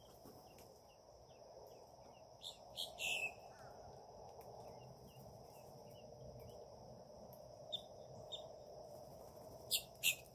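Small birds chirping in a string of short, falling notes, about two a second, over a steady high-pitched hum and a low background hush. A few louder, sharper sounds cut in about three seconds in and again near the end.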